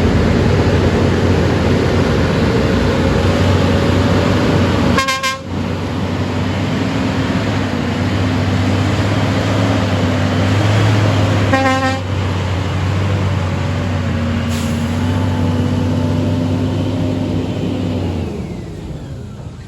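Scania R410 truck's inline-six diesel engine running steadily under a heavy load, with two short horn blasts about five and eleven seconds in. The engine note drops away near the end.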